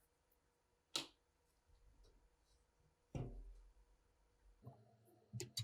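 Sparse handling noises: a sharp click about a second in, a duller knock a little past the middle, and a few quick clicks near the end, typical of small metal parts and tools being set down and handled.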